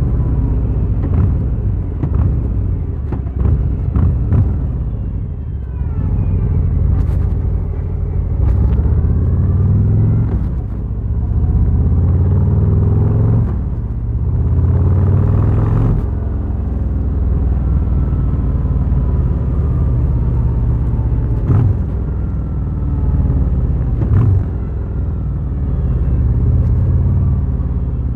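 Harley-Davidson Fat Boy's V-twin engine under way, its pitch climbing as it accelerates and then dropping back at each gear change, several times over.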